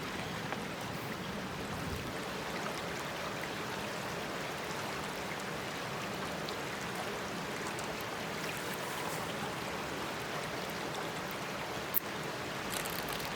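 Steady rushing outdoor background noise, with one sharp click about twelve seconds in.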